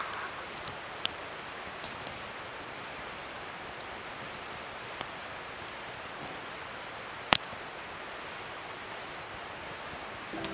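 Wood fire crackling: a steady hiss with a few sharp pops, the loudest about seven seconds in.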